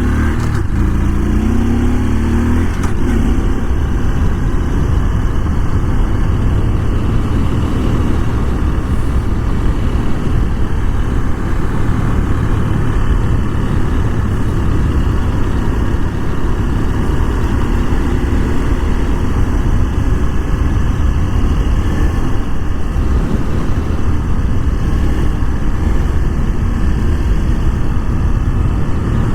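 Honda Super Cub 125's 125 cc single-cylinder engine rising in pitch as the bike accelerates over the first few seconds, then running steadily at cruising speed under a continuous rush of wind.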